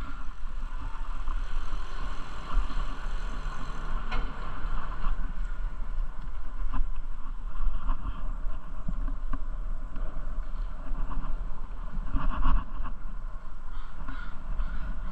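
Steady wind rumble on the microphone of a moving bicycle, with a broad rushing noise of the ride and a few short clicks or rattles.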